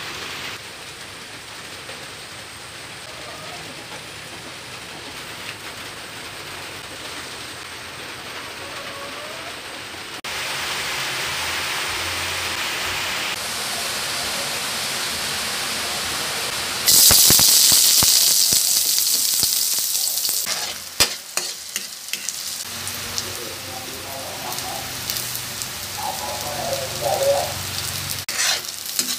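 Oil hissing as it heats in a wok. About two-thirds of the way through, a loud sizzle breaks out as sliced red onions and chopped garlic go into the hot oil. The onions and garlic then fry with a steady sizzle, broken by sharp clicks and scrapes of a spatula stirring against the wok.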